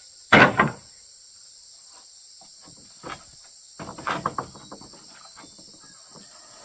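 Steady high-pitched chirring of insects, with a loud clatter about half a second in and a run of knocks and rattles around four seconds in.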